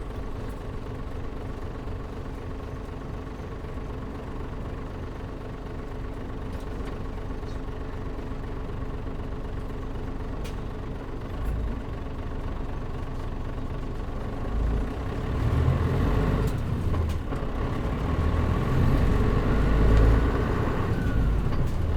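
Engine of a Mitsubishi Fuso KL-MP37JM diesel city bus heard from inside the cabin, running at a steady, even pitch. About two-thirds of the way through it grows louder and heavier as the engine works harder.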